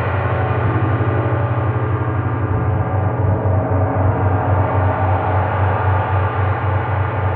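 A gong played in a continuous, sustained wash: a dense shimmer of many overlapping tones over a deep hum that throbs steadily.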